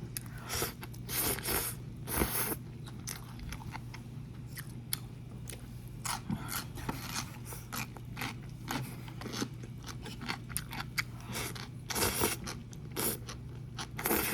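Close-miked eating of instant noodles: several short slurps and steady chewing with small wet clicks and smacks.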